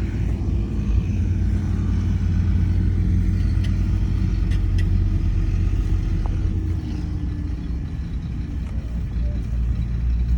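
Heavy diesel earthmoving machinery running steadily under load, its engine easing off slightly about two-thirds of the way through and picking up again near the end, with a few faint metallic clanks.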